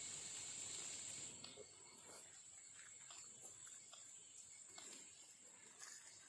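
Faint, steady, high-pitched drone of insects, with a few soft ticks scattered through it.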